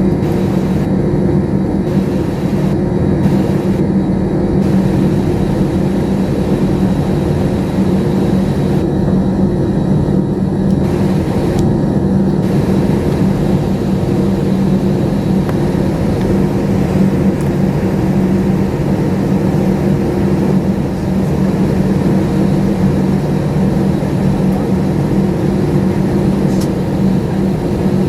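Steady jet airliner cabin noise: a constant engine drone with a low hum, unchanging in level.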